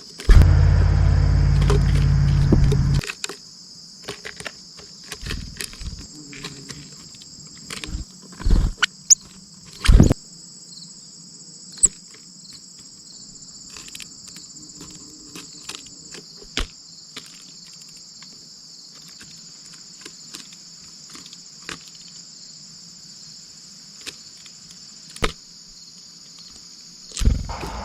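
Steady high-pitched insect chorus, crickets trilling without pause. A loud low rumble fills the first three seconds, and short knocks and clicks come here and there, the loudest about ten seconds in and just before the end.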